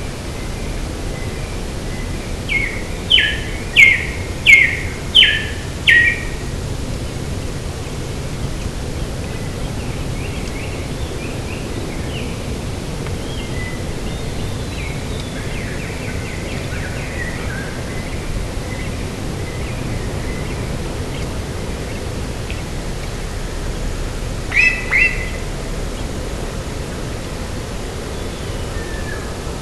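A bird calling over a steady rush of wind and surf: a run of five loud down-slurred notes a few seconds in, softer scattered chirps in the middle, and a short double note near the end.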